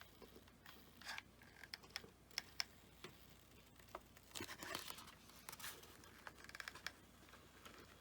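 Faint handling noises of craft work on foam board: scattered light clicks, taps and rustling scrapes, busiest about halfway through.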